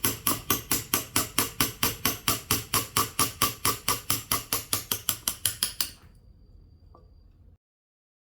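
Carving mallet tapping a chisel into zelkova wood in a rapid, even rhythm of about five strikes a second; the tapping stops about six seconds in.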